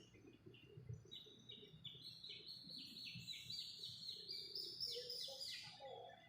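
A bird singing a long run of short, high, down-slurred notes, about three a second, that climb gradually in pitch from about a second in and stop near the end, over a faint low rumble.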